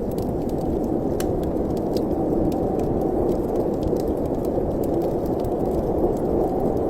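Fire burning in a fireplace with wind: a steady low rush with scattered small crackles and pops.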